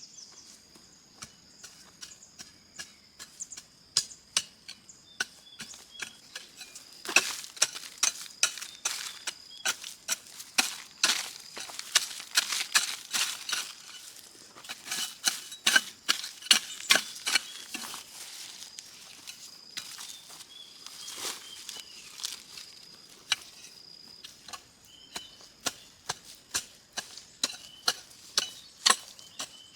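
Rapid, irregular sharp knocks like chopping, densest through the middle stretch and coming again near the end. A steady high-pitched tone and repeated chirps sound underneath.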